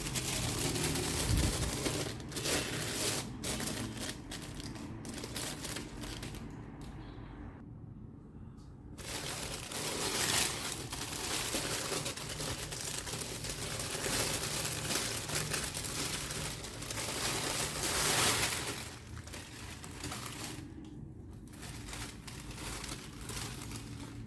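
Packaging crinkling and rustling as it is handled and opened, with short irregular crackles and handling noises.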